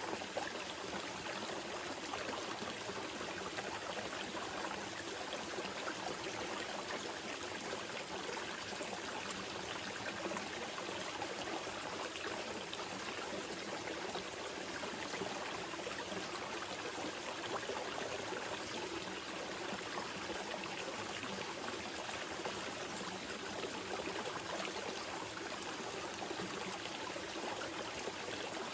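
Small mountain river flowing steadily over rocks, a continuous gentle rush and babble of water.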